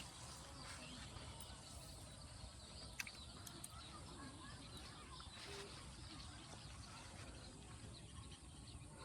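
Quiet ambience with faint, scattered bird chirps and one short, sharp click about three seconds in.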